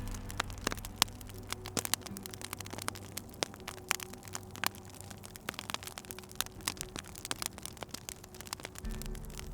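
Wood fire crackling: irregular sharp pops and snaps of varying loudness, several a second, over a low hum.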